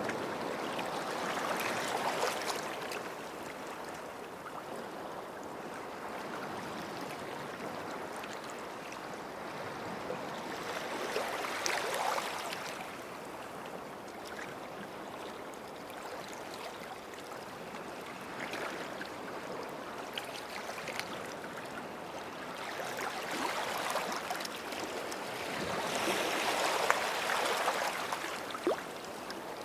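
Small sea waves washing up a beach and draining back, the surf swelling every few seconds, with gurgling and small crackles as the water runs over the shore.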